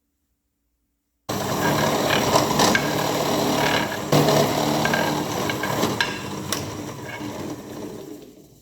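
Tool work on a workpiece: a dense, loud scraping rasp with scattered sharp clicks, starting suddenly about a second in and dying away over the last couple of seconds.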